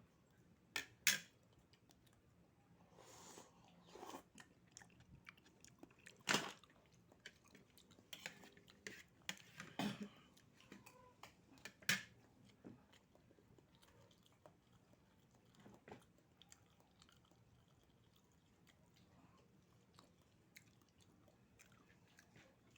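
Close-up eating sounds of a person slurping and chewing oysters: scattered wet smacks and clicks, a few of them loud, around 1, 6, 10 and 12 seconds in, then quieter chewing.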